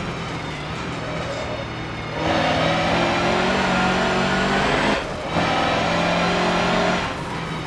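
Mercedes-Benz racing truck's diesel engine pulling hard under full load after a quieter first two seconds, with a brief break about five seconds in as it shifts gear and easing off again near the end.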